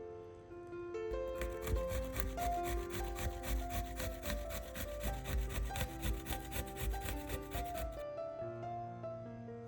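Rapid, even knife strokes on a wooden cutting board, about six a second, that stop about eight seconds in. Background music with a simple melody plays throughout.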